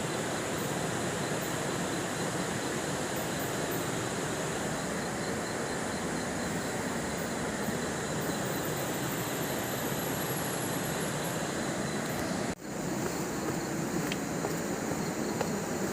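Steady rush of water from a waterfall and river, an even unbroken noise with no pitch. It drops out for a split second a little over twelve seconds in.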